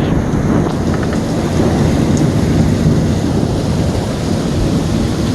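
Heavy thunderstorm: rain pouring and strong wind, with a steady low rumble that eases slightly toward the end.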